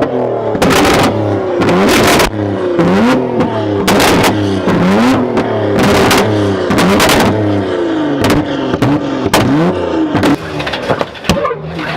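A loud car engine revved in repeated quick blips, its pitch rising and falling every second or two, with sharp cracks from the exhaust between the revs.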